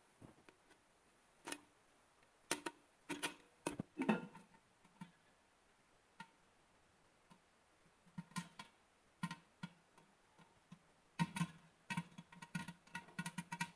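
Faint, scattered plucked notes on a guitar, a single note every second or so at first, coming closer together in the last few seconds.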